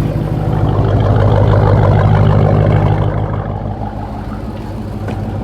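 Car engine running with a steady low rumble, swelling over the first few seconds and easing off a little after the middle.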